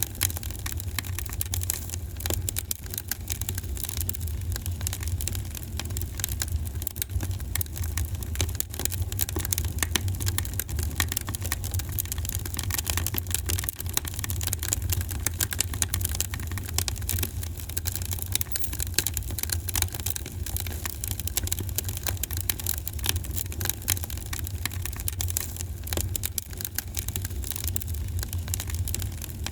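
Fire in a fireplace crackling: frequent small pops and snaps over a steady low rumble.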